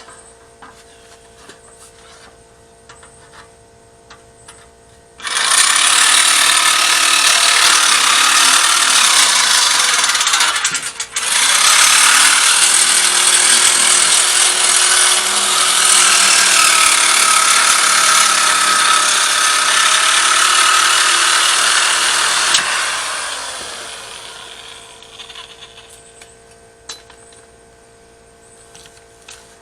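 A handheld power tool running in two long stretches with a brief stop between them, its motor pitch sagging and recovering as it bears on the work, then winding down near the end.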